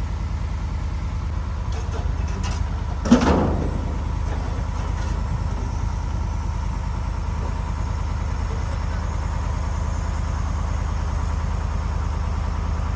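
Vehicle engine running with a steady low drone, with one sharp knock about three seconds in.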